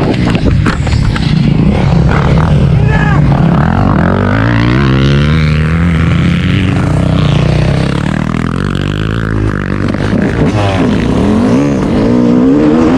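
Dirt bike engine running and revving, its pitch rising and falling repeatedly as the throttle is worked.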